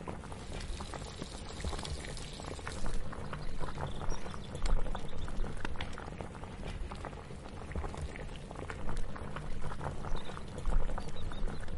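Kitchen cooking ambience: liquid bubbling at a boil, with scattered small clicks and knocks over a low rumble.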